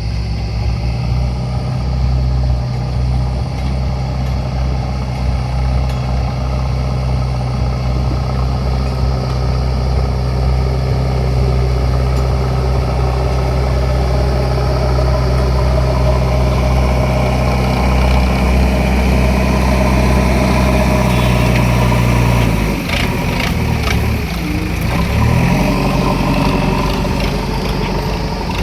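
JCB 3DX backhoe loader's diesel engine running steadily. About 22 seconds in, the engine note drops and wavers briefly, then settles again, with a few knocks near the end.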